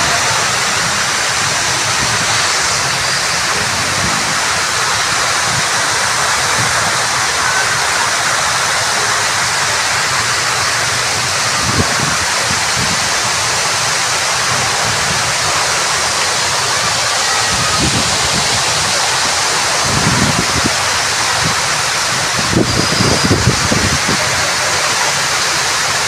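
Steady, loud rush of falling water, like a waterfall or fountain, with a few soft low bumps in the second half.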